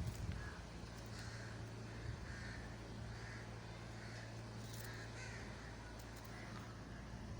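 Crows cawing repeatedly in short, faint calls over a steady low hum.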